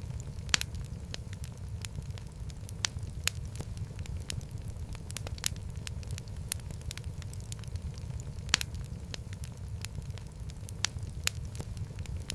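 Wood fire in a fireplace crackling, with a steady low rumble of flame and irregular sharp pops, the loudest about half a second and eight and a half seconds in.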